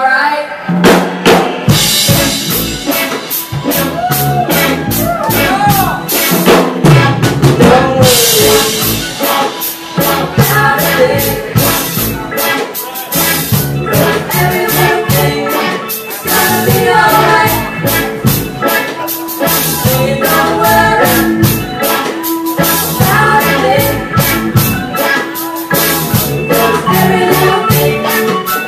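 Live band playing a reggae number, the drum kit keeping a steady beat under a melodic lead line and accompaniment.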